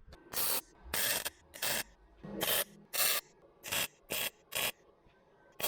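Welding thin car-body sheet steel in short stitch bursts: about nine brief crackling spurts roughly two a second, with a pause near the end, while a patch is welded into a rusted sill.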